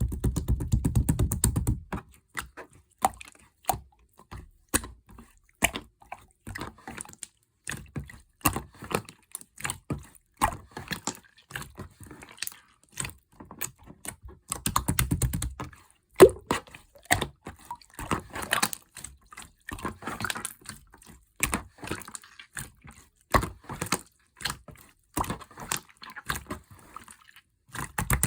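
Slime being squished and poked by hand: irregular wet clicking and popping, with a heavier, longer squish at the start and again about halfway through.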